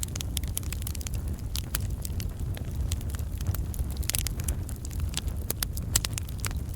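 Campfire of burning logs crackling: dense, irregular sharp pops and snaps over a steady low rumble.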